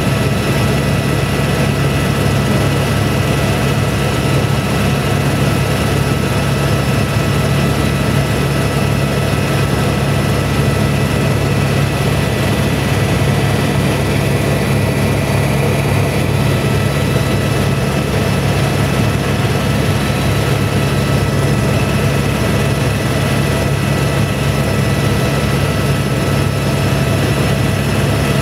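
Helicopter in flight: a loud, unchanging engine and rotor drone with steady high whines laid over it.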